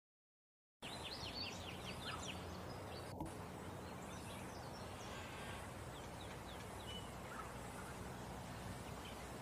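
Wild birds calling over a steady outdoor background hiss: after a moment of silence, a quick run of about eight short high chirps, then scattered single chirps.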